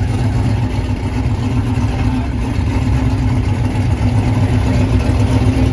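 A car engine running steadily and loudly with a low, even sound, not being revved.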